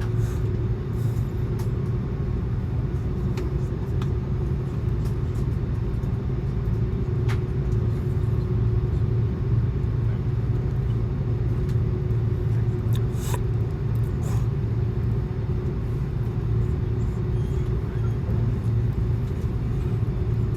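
Steady low rumble and hum of an Airbus A330-200 airliner, heard from inside the passenger cabin, with a few faint clicks.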